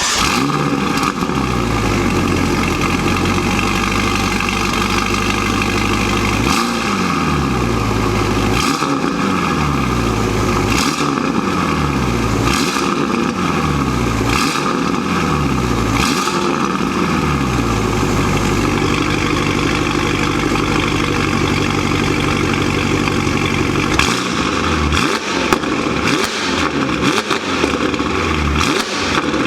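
Ferrari California T's twin-turbo V8 through an aftermarket exhaust with variable valves. It runs at a steady speed, then is revved repeatedly, about one rev every two seconds. It settles again, then is blipped in quicker, shorter revs near the end.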